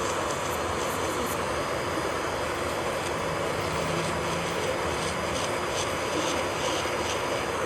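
Electric nail drill (e-file) running steadily as it grinds on a nail, a continuous motor whir with light scraping flickers on top.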